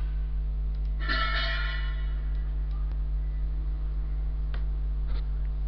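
Steady low electrical mains hum on the recording, with a brief ringing, chime-like sound about a second in and a few faint ticks near the end.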